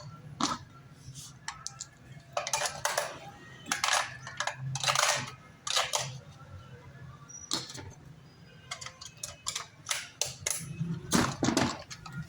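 Irregular clicks and clatter of small hard objects being handled, in scattered groups, over a faint low steady hum.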